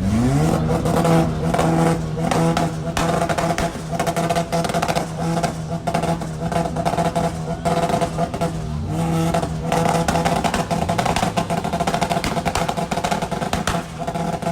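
Car engine revving up and then held at high revs, dropping and rising again about two-thirds of the way through.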